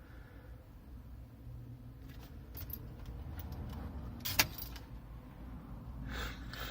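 Car keys jangling on their ring at the ignition, with scattered light rattles and one sharp click about four and a half seconds in, over a low steady rumble.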